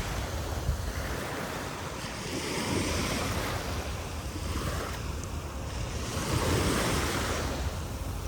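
Sea waves breaking and washing up on a sandy beach, the surf swelling and easing, with wind rumbling on the microphone.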